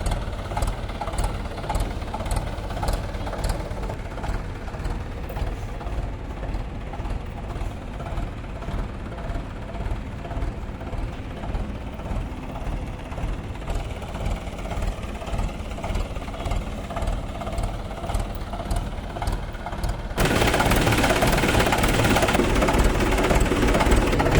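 Mahindra 575 DI tractor's diesel engine idling steadily with a low, pulsing note. About 20 seconds in it is revved up and holds at a higher, louder speed.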